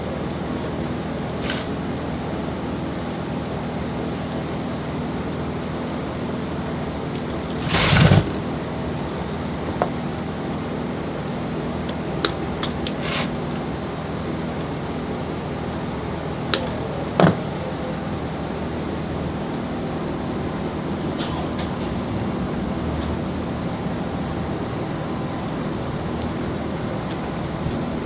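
Steady mechanical hum, with scattered sharp clicks and one louder clatter about eight seconds in.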